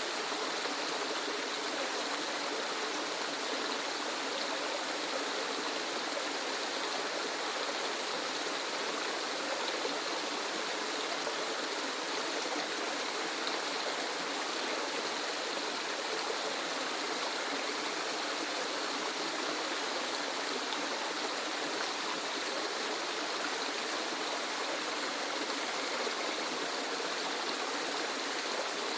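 Water rushing down a waterfall: a steady, even hiss with almost no deep rumble.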